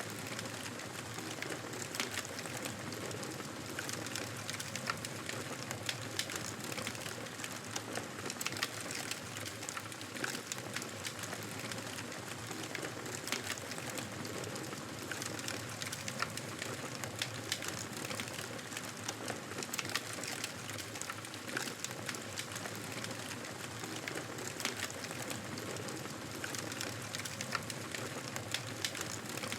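Wood fire burning in a fireplace: a steady hiss of flames with frequent irregular crackles and pops from the burning logs.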